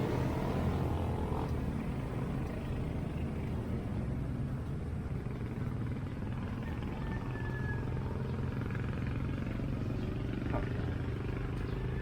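Road traffic: a vehicle engine passing close, loudest in the first second or so and easing off, then a steady low engine hum.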